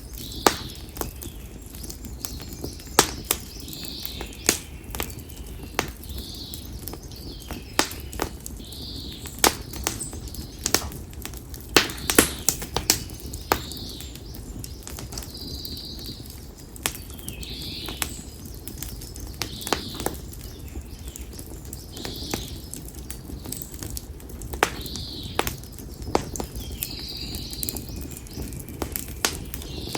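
Konara oak firewood burning in a campfire, crackling with sharp, irregular pops over a low steady rumble. A bird gives a short, high call about every two seconds.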